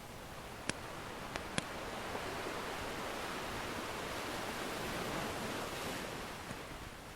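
Ocean surf washing in, swelling to a peak and easing away, with a few sharp pops from a crackling wood fire in the first two seconds.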